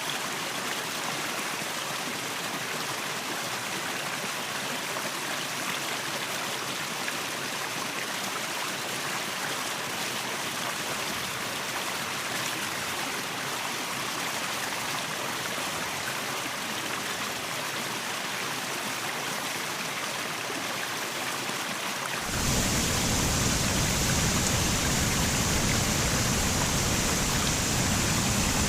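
Waterfall and stream water rushing steadily. About three-quarters of the way through it changes abruptly to a louder, fuller rush with a deeper rumble.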